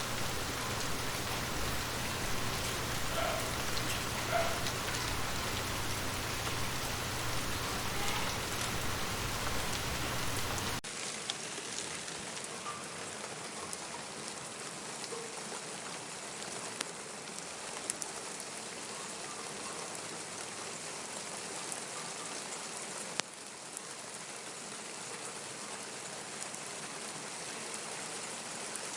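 Steady rainfall, with rain pattering on surfaces. About a third of the way through, the sound drops suddenly to a lighter, thinner hiss, with occasional sharp drips.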